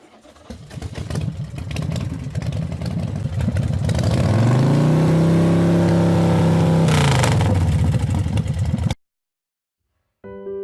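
KTM 790 Adventure's parallel-twin engine running with a rough, uneven note, then revving up about four seconds in. It holds at a high pitch for a few seconds, then falls back. The sound cuts off suddenly near the end.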